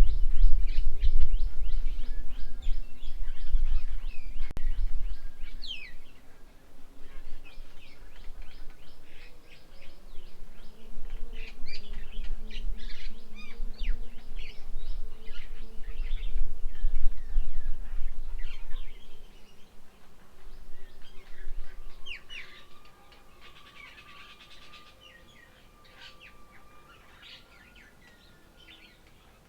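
Many small birds chirping and calling in rapid, overlapping bursts. A loud low rumble sits underneath for the first two-thirds, then dies away, leaving the chirps quieter and sparser near the end.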